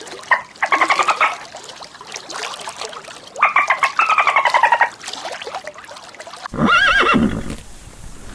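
Horse whinnying: several quavering calls, the second sliding slightly downward, and a shorter wavering call about seven seconds in.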